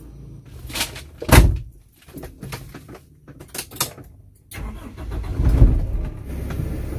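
A few short sharp knocks, then about four and a half seconds in a car engine starts up, flares to its loudest about a second later, and settles into a steady idle.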